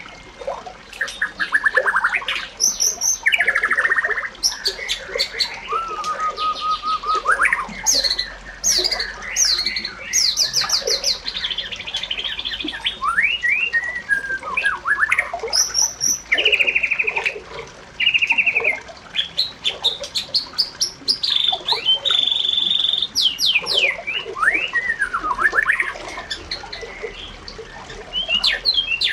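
Several birds singing and calling at once in an unbroken chorus of trills, chirps and quick rising and falling whistles.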